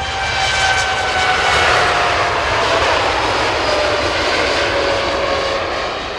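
Airliner passing close by, its engines swelling to loudest about two seconds in, with engine tones sliding slowly down in pitch as it goes by, then fading.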